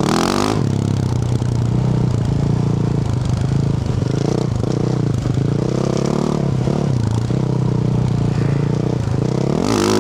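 Yamaha YZ450F's single-cylinder four-stroke engine through a Yoshimura RS-12 exhaust, running at low revs while riding, its pitch dipping and rising with the throttle. Short revs come right at the start and again near the end.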